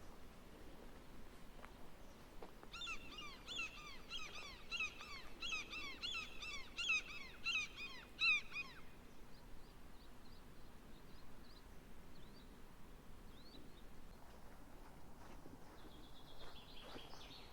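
A bird calling a run of about fourteen short, downward-sliding notes, a little over two a second, for about six seconds, then fainter high notes, over quiet outdoor background sound.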